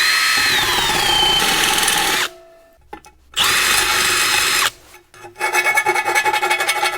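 Electric hand drill cutting into an aluminium mounting plate to enlarge a hole. It runs in two bursts, the whine falling as the bit bites, then from about five seconds in runs again with a rough, rapid chatter of the bit against the metal.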